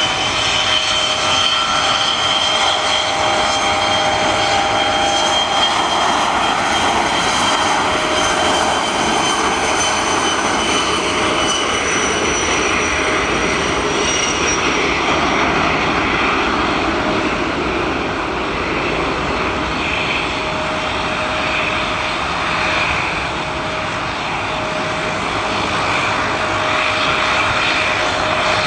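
De Havilland Dash 8 twin turboprop engines and propellers running at takeoff power: a steady drone with a high whine whose pitch falls slightly about halfway through.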